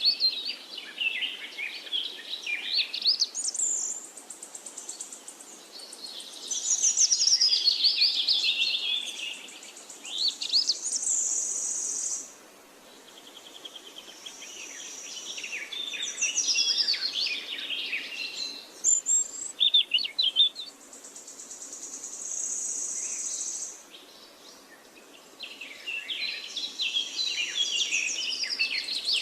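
Songbirds singing rapid, varied whistled and trilled phrases in bursts with short pauses between them, over a steady high-pitched insect buzz that comes and goes.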